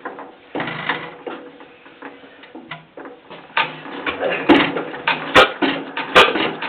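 Antique 5 hp Economy hit-and-miss gasoline engine being turned over and catching: light clicking at first, then a growing mechanical clatter from about halfway through, with two sharp firing bangs near the end.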